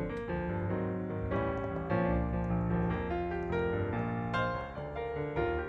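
Background piano music, a run of quick notes over a low bass line.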